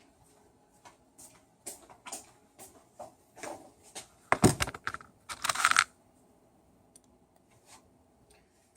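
A string of light clicks and taps from handling hard tool parts, with two louder clattering knocks about halfway through, then quiet.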